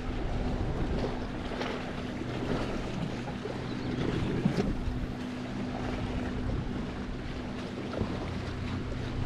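Wind buffeting the microphone and sea water lapping around a kayak, with a few small knocks.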